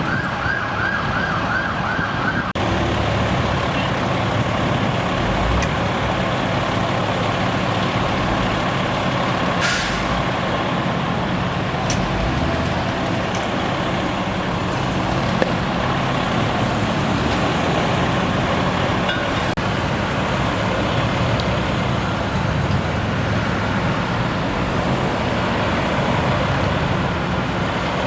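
An emergency vehicle siren in a fast, repeating yelp that cuts off suddenly about two seconds in, followed by the steady running of a heavy vehicle's engine with street noise.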